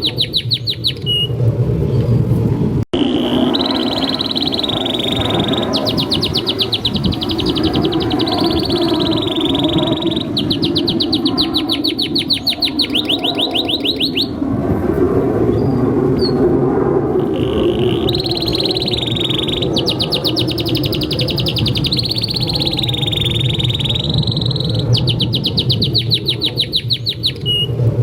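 Male domestic canary singing a long, unbroken song of rapid high trills and rolling phrases, trill after trill with only short breaks, over a steady low rumble.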